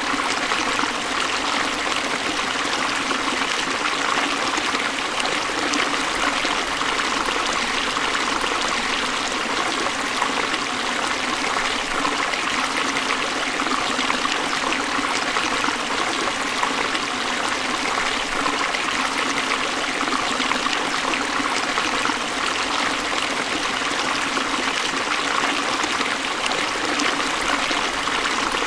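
Forest stream flowing steadily over rocks, a constant babbling and trickling of water.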